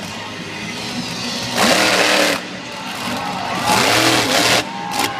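Monster truck engine revving hard in two loud bursts, about a second and a half in and again about four seconds in, its pitch swinging up and down between quieter running.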